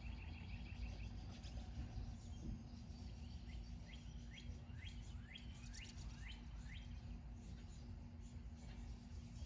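A songbird singing a run of about eight quick down-slurred notes in the middle, a little over two a second, over a faint steady low hum of outdoor background noise.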